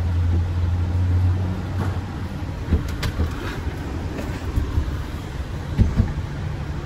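A vehicle engine idling with a steady low hum, with a few short knocks and clunks around three seconds in and again near six seconds.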